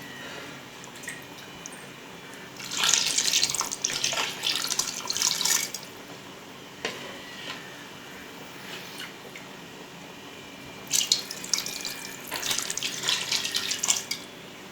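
Water poured in two runs of about three seconds each, splashing into a pot of masala gravy as tumblers of water are added for the rice, with a few light knocks in between.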